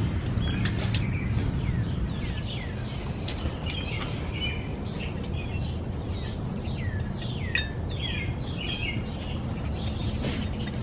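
Small birds chirping: many short, downward-sliding chirps, several in quick succession, over a steady low rumble.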